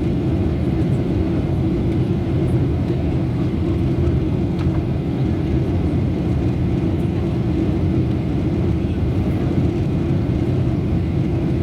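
Airliner cabin noise: a steady low rumble of jet engines and rushing air that stays level throughout, with a few faint ticks.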